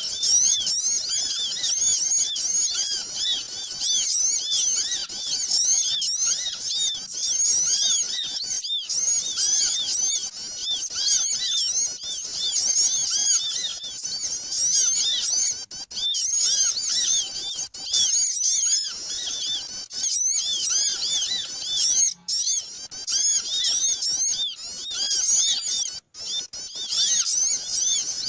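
A dense, noisy chorus of many small songbirds chirping and twittering rapidly over one another, with a few short gaps; a bird-lure (pikat) recording made to draw small birds in.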